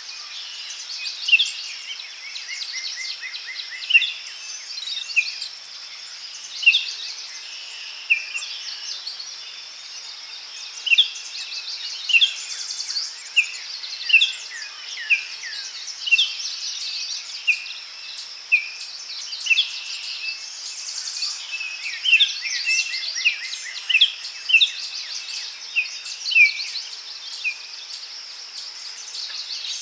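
Daytime forest ambience: many birds calling and singing with short, sharp notes and quick trills every second or so, over a steady high insect buzz.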